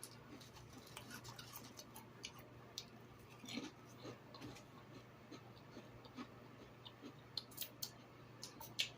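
Faint chewing of a grilled cheese sandwich, heard as soft, irregular wet mouth clicks and ticks over a low steady hum.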